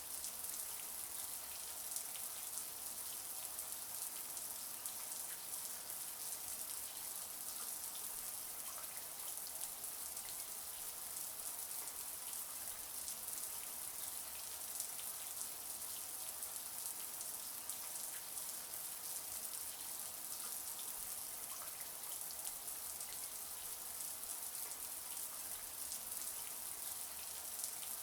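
Shower water running steadily, a constant high hiss of spray with fine droplet patter.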